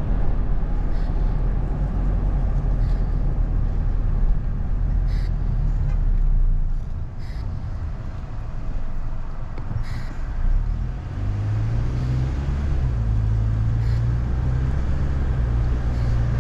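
Car driving, heard from inside the cabin: low road and tyre rumble that eases about halfway through. Then a steady engine hum takes over as the car picks up again, with a few faint clicks.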